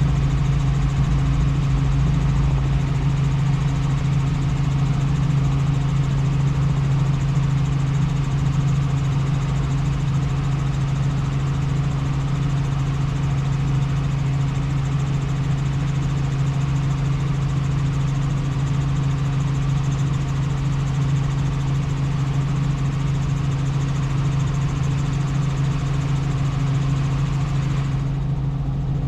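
Helicopter in flight: a steady, loud engine and rotor drone with a strong constant low hum, low rumble and hiss. Near the end the higher hiss drops away.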